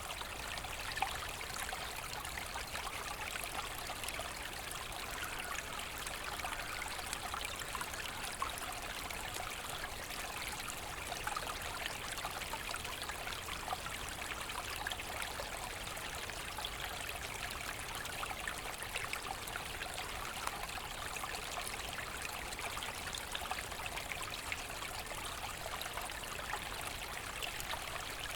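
Forest stream babbling steadily: water running and splashing over stones in a continuous burble.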